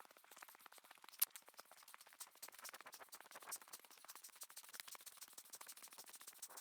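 Faint, rapid pattering of sleet or ice pellets, dense fine ticks with one sharper tick about a second in.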